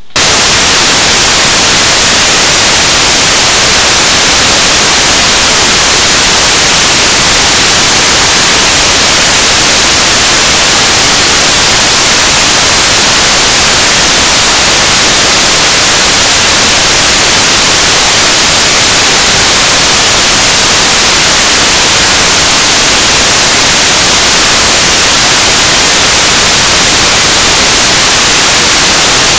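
Loud, steady static hiss like white noise, starting abruptly and holding completely unchanged, with no crackles or pops in it.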